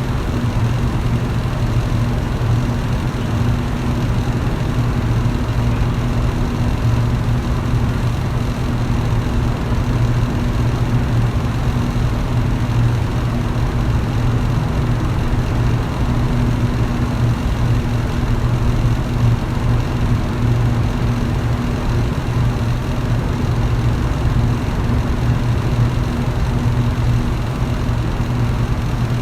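Electric fan running steadily: a constant motor hum under an even rush of air.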